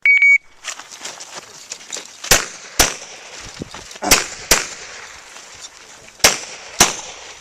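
A shot timer's short, steady start beep, then six gunshots fired as three pairs, each pair about half a second apart: a shooter engaging targets on a practical shooting stage.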